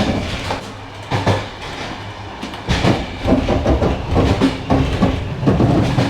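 Passenger train running along the track, heard from on board: a steady rumble with the wheels clattering over the rail joints. It drops to a softer rumble about a second in and grows loud again near the three-second mark.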